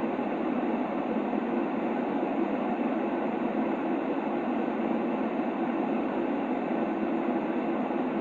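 Steady, unchanging white-noise track for baby sleep: a low, muffled rushing sound with most of its weight in the lower middle and little hiss on top.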